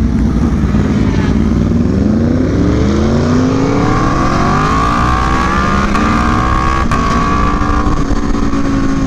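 Motorcycle engine accelerating hard, its pitch climbing smoothly for about two seconds before it holds steady at high revs.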